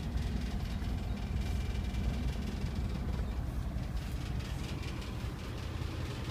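Nissan Vanette truck's engine idling steadily.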